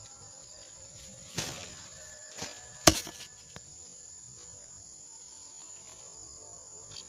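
A few sharp knocks, three in quick succession with the loudest about three seconds in, over a steady high-pitched hum.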